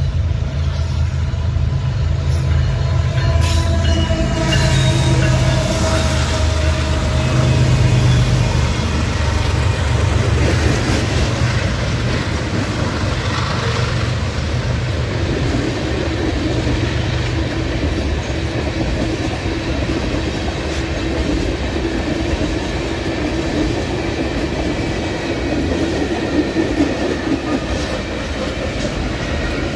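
BNSF freight train passing close by: its diesel locomotives run past with a heavy rumble, loudest around the first third. Then the loaded freight cars roll by with a steady clickety-clack of wheels over the rail joints.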